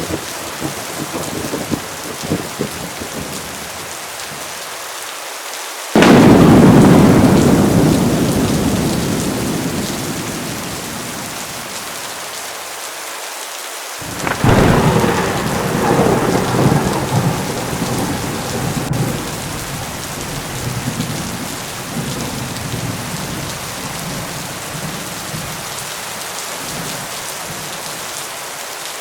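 Heavy rain falling steadily, broken by thunder. A sudden loud thunderclap about six seconds in rumbles away over several seconds, and a second rolling peal of thunder starts about fourteen seconds in and fades slowly. The tail of an earlier rumble dies away in the first few seconds.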